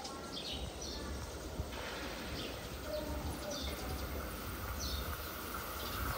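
Birds chirping in short, repeated falling calls, over the low rumble of a Puyuma Express train that grows louder from about two seconds in as it approaches.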